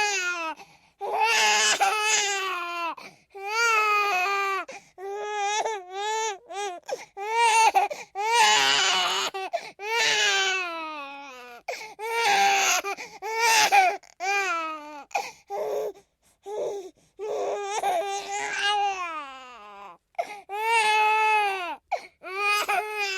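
A baby crying hard: repeated wails, each one to two seconds long with short gasps for breath between, some rising and falling in pitch and a few strained and raspy.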